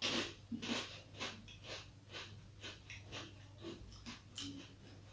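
A bite into an Oreo chocolate wafer roll, then crunchy chewing, about three crunches a second, close to the mouth, with breath through the nose.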